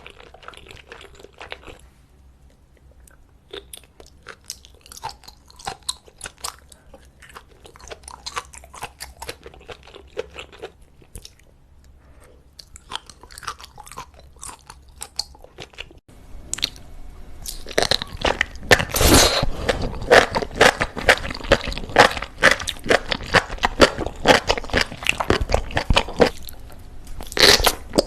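Close-up eating sounds of seafood being bitten and chewed. At first there is soft, sparse chewing with small clicks. After a sudden change about halfway through, loud, rapid, crunchy chewing follows.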